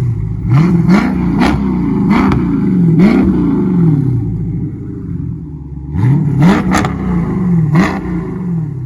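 2020 Dodge Charger Scat Pack's 392 HEMI V8 being revved in quick throttle blips through a Kinney's Tunnel Ram performance exhaust, with a sharp crack at the top of each blip. About five blips come in the first three seconds, the revs sink back for a couple of seconds, then another burst of blips about six seconds in before it settles back toward idle.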